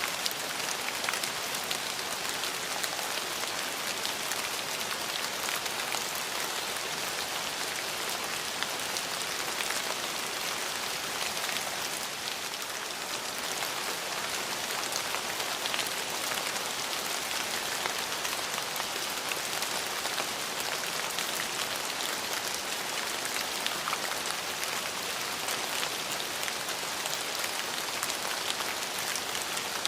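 Steady rain falling, an even, dense hiss with many single drops ticking through it.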